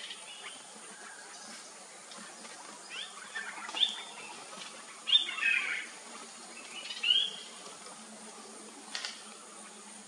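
Bird calls: a handful of short calls that rise in pitch, spread a second or two apart, the longest about halfway through. A single sharp click near the end.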